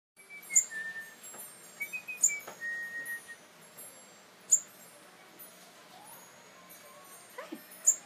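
Small yellow songbird giving short, very high chirps about four times, the loudest sounds here, while a person whistles a few steady notes at it, each pair stepping down in pitch, in the first half.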